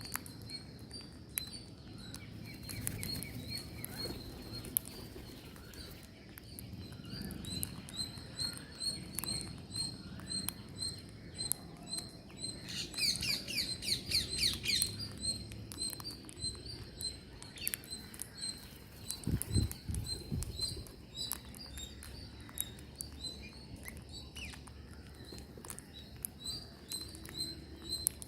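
Green parrots calling: a steady series of short high chirps about twice a second, broken about halfway by a louder burst of rapid warbling calls, with scattered clicks and pattering throughout.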